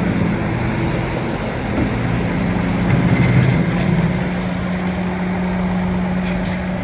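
Bulldozer's diesel engine running steadily, swelling briefly about three seconds in. A short burst of high hiss or clatter comes near the end.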